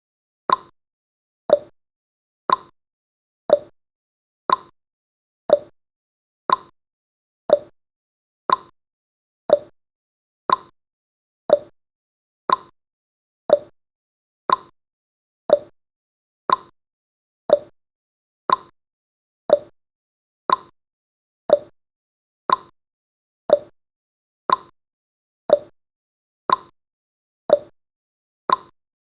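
Clock-tick sound effect of a countdown timer: a short, sharp tick once every second, each dying away quickly, keeping an even pace.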